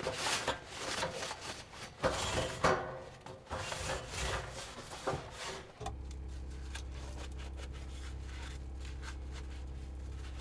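Irregular rubbing and rustling for about six seconds, then it changes abruptly to a steady low hum with faint ticks.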